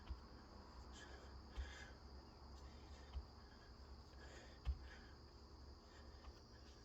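Faint dull thumps about every second and a half from a person exercising, over a steady faint high-pitched hum.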